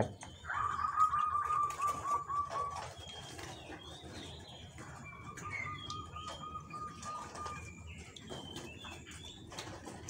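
A zebra dove being bathed by hand in a basin, wet wings flapping with light splashing, while a high, slightly wavering bird trill sounds twice, each for about two seconds, among short bird chirps.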